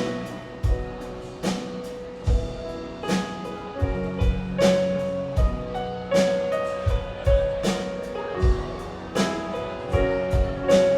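Live band playing an instrumental break in a pop song: a kick drum beats steadily about every 0.8 seconds under cymbal strokes, with bass and sustained chords.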